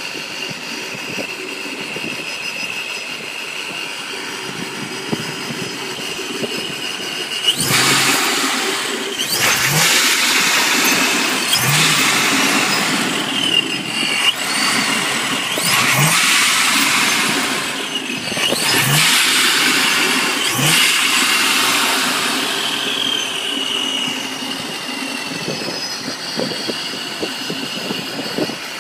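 ProCharger-supercharged 4.6-litre three-valve V8 of a 2005–2009 Mustang GT, running through a Pypes exhaust, idling and then revved hard several times from about eight seconds in. A high supercharger whine rises and falls with each rev. The engine settles back to idle for the last several seconds.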